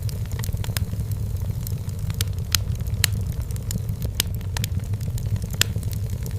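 Firewood burning in a fireplace: irregular sharp crackles and pops over a steady low rumble.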